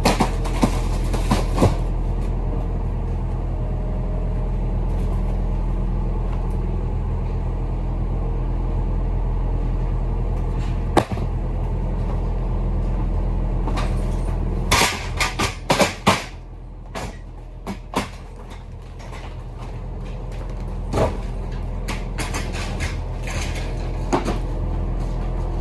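Heavy truck's engine running with a steady low drone, broken by sharp knocks and rattles. A cluster of clacks comes about fifteen seconds in, after which the drone drops lower for a couple of seconds and then builds back.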